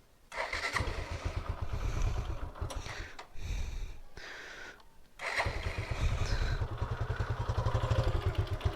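Suzuki Gixxer 155's single-cylinder engine starting after an oil change and flush. A first start runs roughly for a few seconds and dies away; about five seconds in it catches again and settles into an even idle. The rough 'get-get-get' at first is something the owner thinks may come from the freshly flushed engine.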